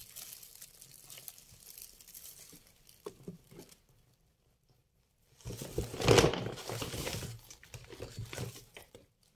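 Bag crinkling and rustling as groceries are handled and pulled out of a shopping bag: faint at first, a short pause, then louder handling in the second half.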